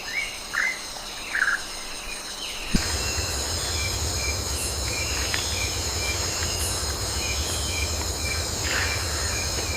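Night rainforest ambience: a steady high drone of insects, with short falling bird chirps over the first few seconds. About three seconds in, a steady low rumbling noise joins and short chirps repeat evenly over the drone.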